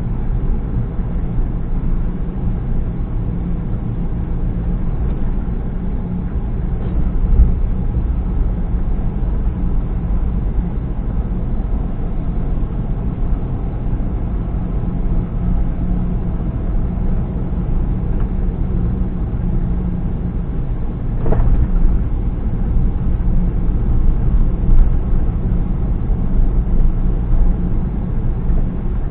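Steady low rumble of a vehicle driving, engine and road noise with no speech. There is one brief knock about three-quarters of the way through.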